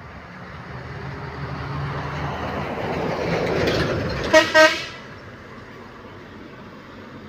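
Truck engine running and growing louder over about four seconds, then two short horn toots in quick succession about four and a half seconds in.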